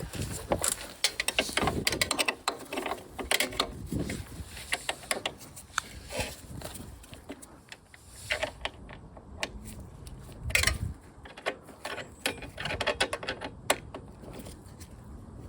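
Hand tools and metal parts clicking and clanking irregularly, with a few dull knocks, during work on a motorcycle slip-on exhaust.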